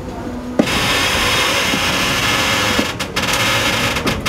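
Moving passenger train heard from its open rear platform: a steady rush of wheel, rail and wind noise with a light rhythmic clatter from the wheels on the track. The rush comes in suddenly about half a second in.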